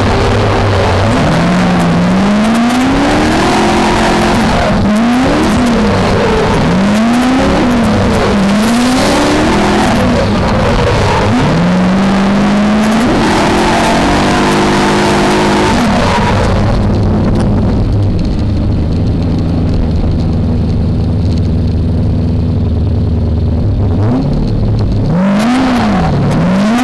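V8 engine of a BMW E30 drift car heard onboard, revs rising and falling again and again under a loud rushing noise. About seventeen seconds in, the rushing drops away and the engine holds steady low revs, then revs up and down again near the end.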